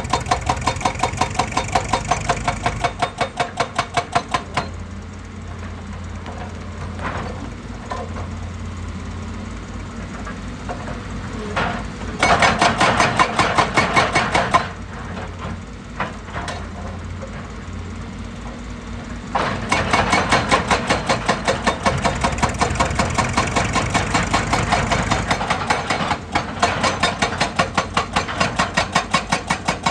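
Heavy machine's diesel engine running, with stretches of fast, even knocking at the start and again from about two-thirds of the way in, and a louder burst in the middle.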